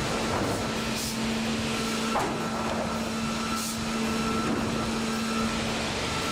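Heavy machinery running with a steady hum, broken by a couple of short hisses.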